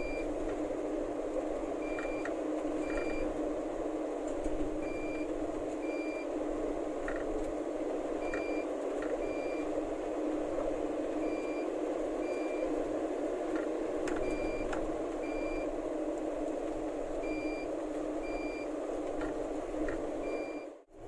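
Truck reversing alarm sounding short high beeps in pairs, a pair about every three seconds, over a steady drone. The sound cuts out briefly near the end.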